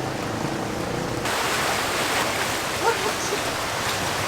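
Heavy rain pouring down: a steady, dense hiss that grows fuller in the high end about a second in.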